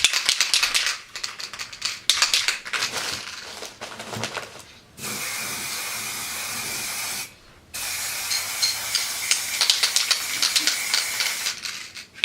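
Aerosol spray paint can shaken, its mixing ball rattling in quick clicks, then sprayed in two steady hisses, the first about two seconds and the second about four, with more rattling over the second.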